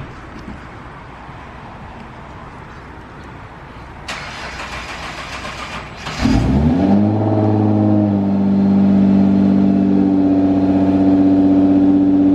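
A car engine is cranked for about two seconds, catches about six seconds in with a quick rise in revs, then settles into a steady idle.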